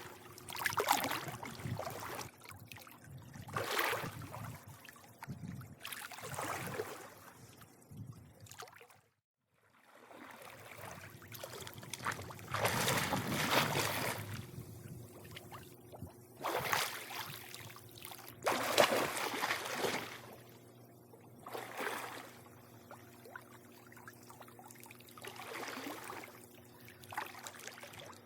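Swimming pool water lapping and splashing in irregular surges, over a faint steady hum. The sound cuts out completely for about a second around a third of the way in.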